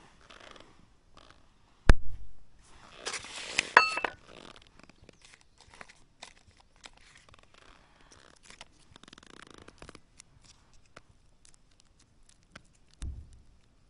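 Camping gear being handled: a sharp knock about two seconds in, then about a second of rasping, scraping noise with a brief squeak, followed by scattered light clicks and a soft thump near the end.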